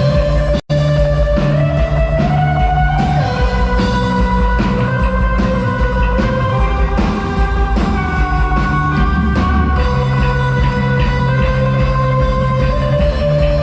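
A rock band plays an instrumental passage with guitars, bass and drums, the guitars ringing out sustained notes. The sound drops out for a split second a little over half a second in.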